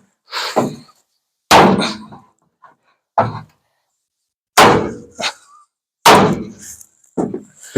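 Metal-on-metal strikes against the dented steel sheet metal at the front of a 1950 Ford F1, working the dent out: about six hard blows a second or so apart, each with a short clanging ring, with lighter taps between.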